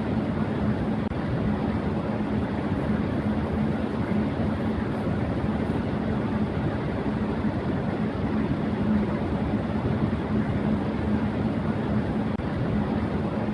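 Electric fan running at high speed: a steady rush of moving air with a constant low hum under it.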